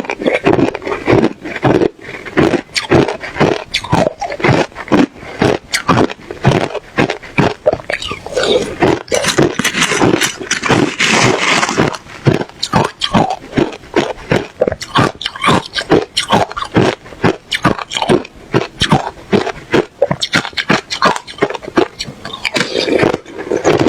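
Ice being chewed close to the microphone: a continuous run of loud crunches, about three or four a second, with a denser, harsher stretch of crunching about nine to twelve seconds in.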